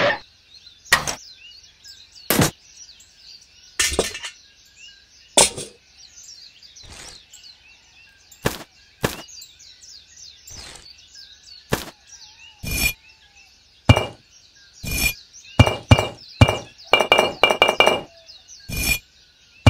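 Small bricks clinking and knocking against one another as they are set in place, about twenty hard taps at uneven spacing that come faster near the end, some with a short ringing tone. Faint bird chirping runs underneath.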